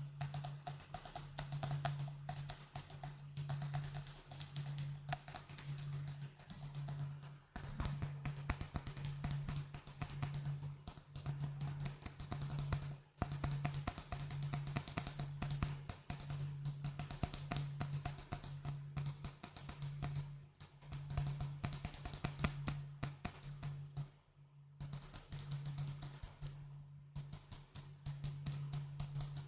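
Fast tapping on glass bottles: a dense stream of quick, light clicks with a glassy ring, pausing briefly twice. A low hum pulses evenly underneath.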